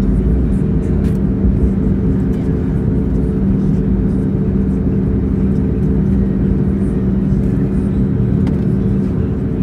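Steady cabin drone of an Airbus A320neo's engines running at low thrust before the takeoff roll, with a constant low hum and no rise in pitch.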